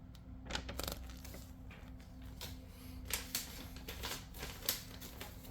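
Paper flyers being handled: scattered soft rustles and light clicks and crinkles, with a faint steady low hum underneath.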